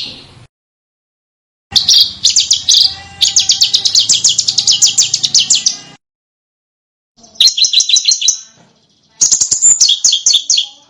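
Small songbird giving rapid strings of sharp, high chirps in four bursts, each starting and stopping abruptly with dead silence between: a spliced masteran recording used to tutor caged songbirds. The longest burst, in the middle, is a fast even trill of repeated notes.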